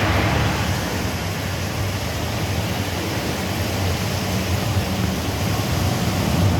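Gusty wind blowing across the microphone: a steady, loud rumbling rush.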